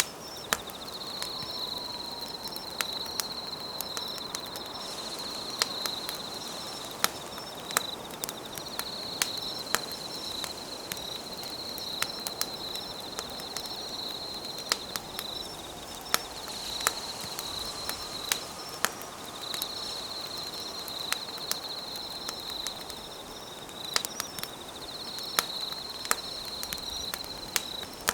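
Wood fire crackling, with sharp pops coming irregularly about once a second, over insects trilling at a steady high pitch in stretches of a few seconds broken by short pauses.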